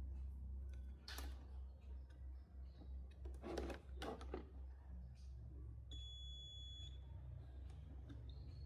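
Low steady hum with brief handling noises about a second in and again midway, then a single high electronic beep lasting about a second about two-thirds of the way through.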